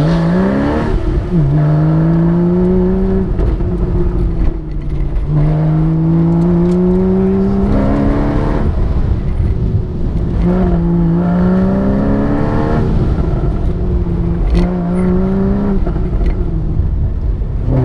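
Porsche sports car engine heard from inside the cabin on an autocross run, rising in pitch as the car accelerates hard, then falling back each time the driver lifts or brakes for the next turn, several times over.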